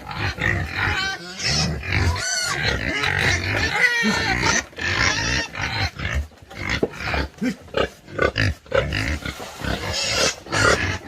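Animal calls: a run of short, irregular cries with sweeping pitch over low, rough noise.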